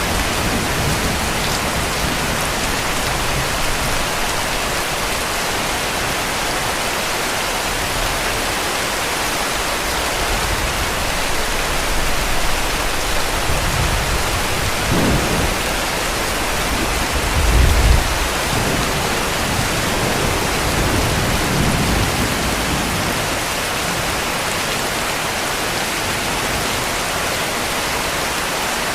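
Steady heavy rain falling in a dense hiss, with low rumbles of distant thunder rolling through the middle, the strongest a little past halfway.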